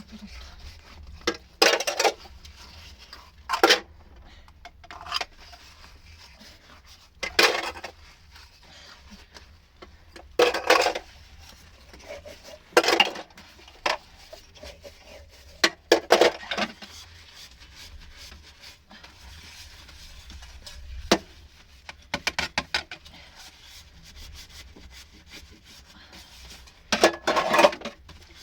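Wood being handled: irregular scraping and rubbing strokes with a few sharp knocks, a few seconds apart.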